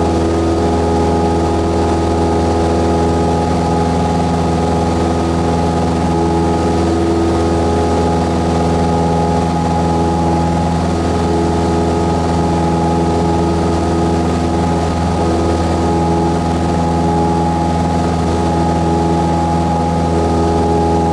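Cessna 172S's four-cylinder Lycoming piston engine and propeller droning steadily at a constant pitch.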